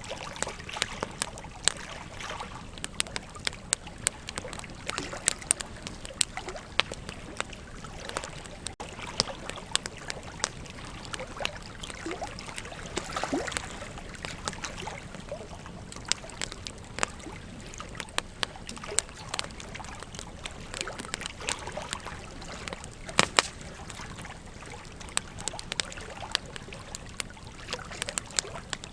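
Wood fire crackling, with frequent sharp pops and snaps, over the steady rush of a flowing river.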